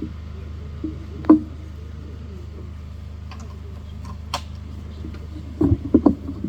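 Steady low electrical hum from a sound system, with a couple of sharp knocks and a quick cluster of deep thumps near the end.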